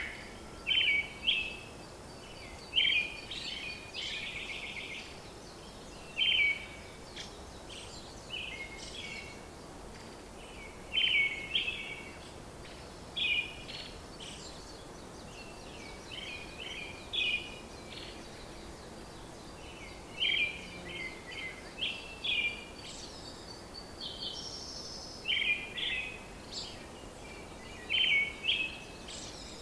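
Small birds chirping in short repeated phrases every second or two, over a steady hiss of background noise.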